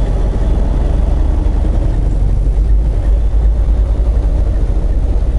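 Semi truck's diesel engine running steadily while driving, heard from inside the cab as a loud, even low rumble.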